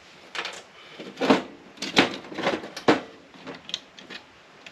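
Hard metal parts clicking and clattering as they are handled and set down on a workbench while a scrapped unit is sorted: a dozen or so uneven knocks, the loudest about a second and a half apart.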